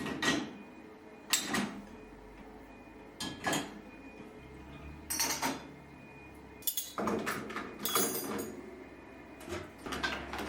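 Household objects being handled and set down: a series of separate clinks and knocks a second or two apart, with a longer clatter past the middle.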